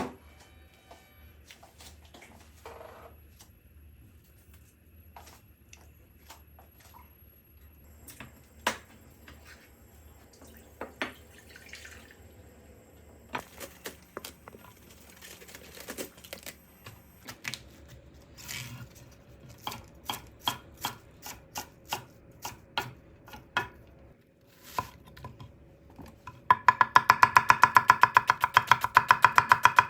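Kitchen knife cutting on a cutting board: scattered single cuts that come faster from about halfway, then a burst of quick, even, loud chopping near the end.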